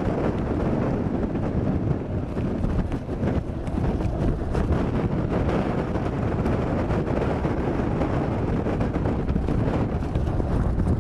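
Strong wind rushing steadily with a deep rumble, a storm or tornado sound effect.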